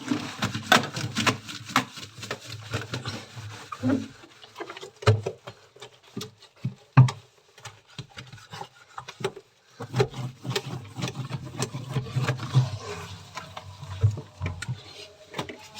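Cloth rubbing and wiping over the fridge's plastic interior, with frequent irregular knocks and clicks of plastic parts.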